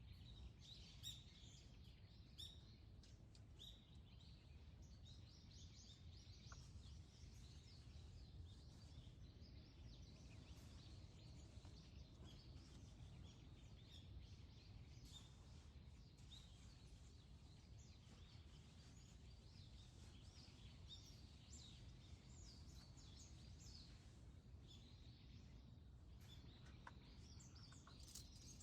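Faint dawn birdsong: many small birds chirping and calling in short high notes, busiest near the start and the end, over a steady low rumble.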